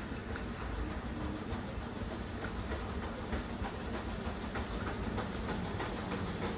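Railway train running on the track: a steady low rumble with scattered clicks from the wheels and rails.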